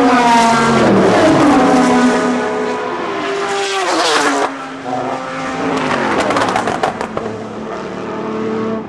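Endurance race cars passing at speed, engine notes falling in pitch near the start and again about four seconds in as cars go by. From about five and a half seconds a run of sharp crackles is heard over the engines.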